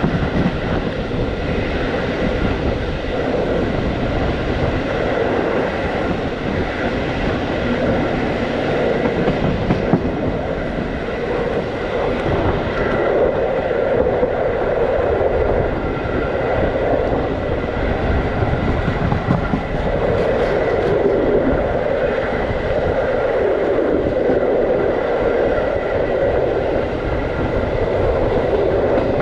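Passenger train carriages running along the track, heard from an open window: a steady rumble and rush with the wheels knocking over rail joints.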